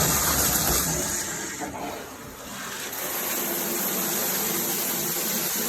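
Kaqinu high-pressure shower head running, water spraying in a steady rush that eases briefly about two seconds in.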